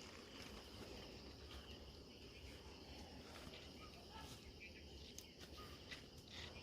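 Faint steady insect chirring, with a low hum and a few soft ticks.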